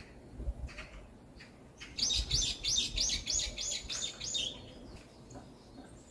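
Songbird singing a fast trill of about eight quick, repeated high notes lasting roughly two and a half seconds, with a few short single chirps before it.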